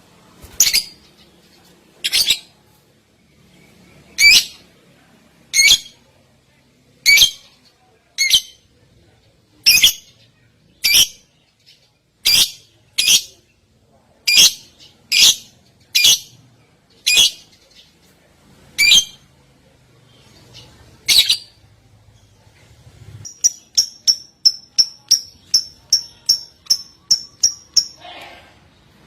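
A songbird calling: loud, sharp high calls repeated about once a second, then, from near the end, a fast run of about a dozen high notes ending in a falling note.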